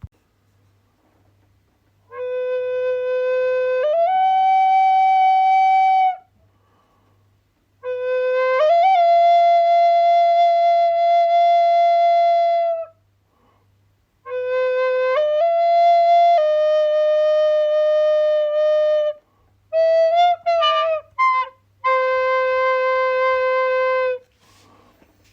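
A flute-like wind instrument playing slow phrases of long held notes with short pauses between them. Most phrases start on a lower note and step up to a higher one, and near the end there is one quicker run of wavering notes.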